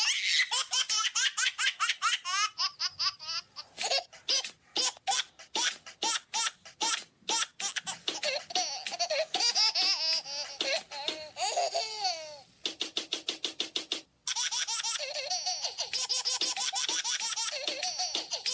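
High-pitched laughter in quick, rhythmic pulses, broken by a brief buzzing stretch about two-thirds of the way through.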